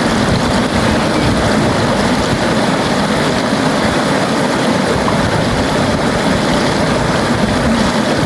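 River water flowing, a steady, loud rush of noise that never lets up.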